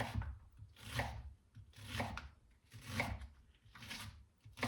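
Kitchen knife chopping an onion on a cutting board, about one stroke a second, each a crisp cut ending in a knock on the board.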